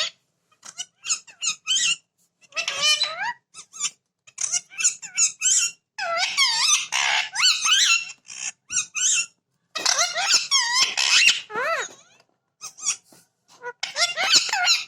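A parrot chattering and squawking in many short bursts of high, warbling calls with brief pauses between them.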